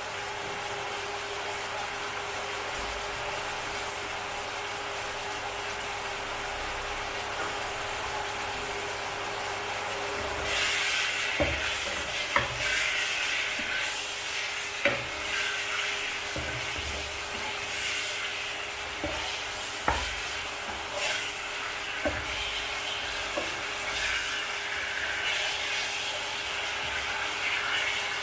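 Pork belly pieces sizzling in a wok in soy and oyster sauce, with a steady hum underneath. About ten seconds in, a wooden spatula starts stirring and turning the meat: the sizzling gets louder, and the spatula knocks sharply against the wok a few times.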